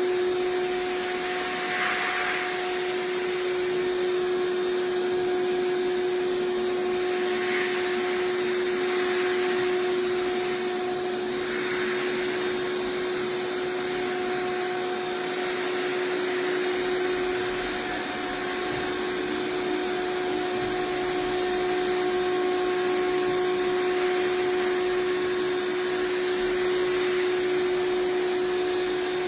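iRobot Roomba Combo 405 robot vacuum running steadily, its suction motor giving an even hum with a constant whine over the rush of air, and a few soft swishes along the way.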